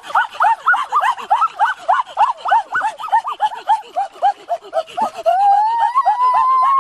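A high-pitched voice making rapid short rising-and-falling calls, about four a second, then from about five seconds in one long held cry.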